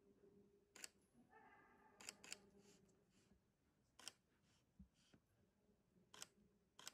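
Near silence, broken by about six faint, sharp clicks at uneven intervals.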